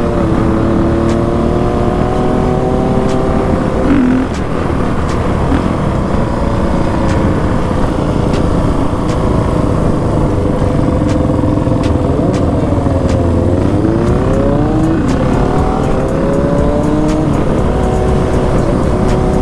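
Dirt bike engine running under way, with wind rushing past; about 13 seconds in the engine speed drops sharply and then climbs again.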